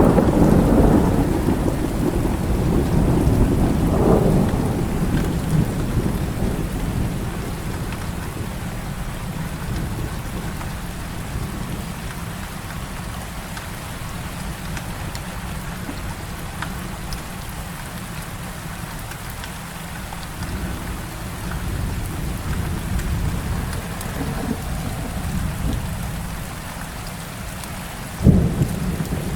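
Heavy rain falling steadily, with a low roll of thunder that fades away over the first few seconds and a sudden sharp thunder crack about a second before the end.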